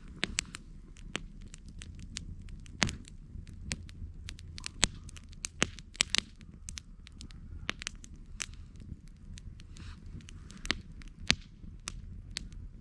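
Campfire crackling: irregular sharp pops and snaps of varying loudness over a low steady rumble of the flames.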